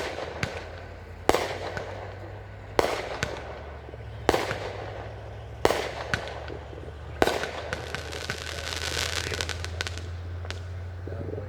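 Aerial fireworks bursting overhead: six sharp bangs about a second and a half apart, then a few seconds of dense crackling.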